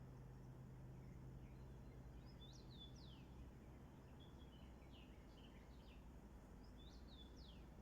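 Faint birdsong: a few groups of short, high chirps that sweep downward in pitch, over quiet background noise with a low steady hum that stops about halfway through.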